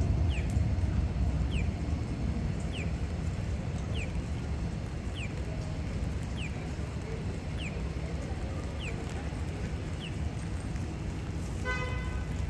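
Downtown street ambience: a low traffic rumble that eases after a vehicle passes at the start. A short falling chirp repeats about once a second, and a brief pitched tone sounds near the end.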